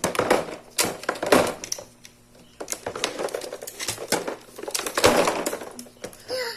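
Plastic toy parts and packaging being handled: irregular clicks, knocks and rustling.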